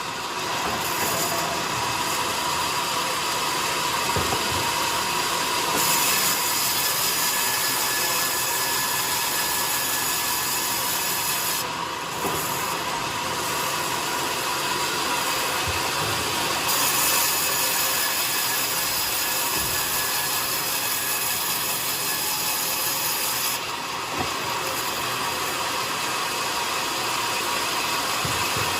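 Powered sawmill saw cutting coconut lumber, a steady continuous sawing noise with small shifts every few seconds.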